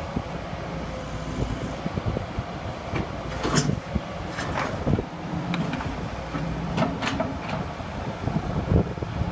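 Ingersoll Rand ZX125 excavator running, a steady engine drone with irregular sharp metallic clanks and knocks over it.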